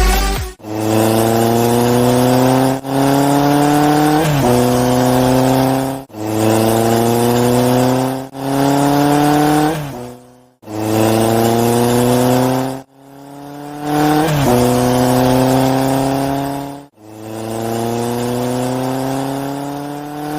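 Race car engine accelerating, over and over: about seven stretches of a few seconds each, the pitch climbing steadily in each one, with every stretch cut off abruptly before the next begins.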